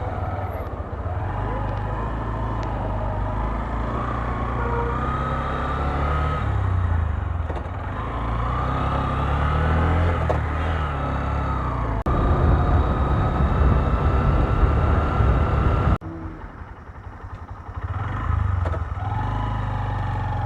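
125cc motorcycle engine running and road noise while riding, the engine note rising and falling with the throttle. It gets louder about twelve seconds in and drops off sharply about sixteen seconds in before picking up again.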